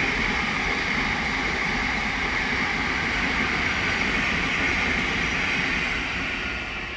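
Thameslink Class 700 electric multiple unit passing: a steady rushing roar of wheels on rail and moving air that starts to fade away near the end.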